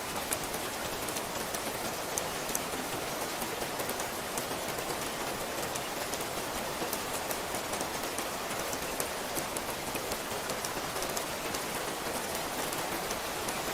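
Steady rain: an even hiss dotted with many sharp little drop ticks.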